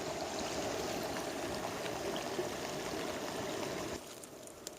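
Creek water flowing, a steady rush that drops off suddenly about four seconds in.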